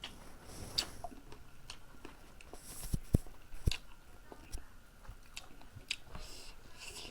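A person chewing and biting chicken and chicken liver up close, with wet mouth smacks and sharp clicks scattered through.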